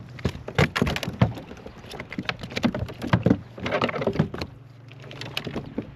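Irregular splashing and knocking of a hooked speckled trout thrashing at a kayak while it is handled, in clusters of sharp strokes.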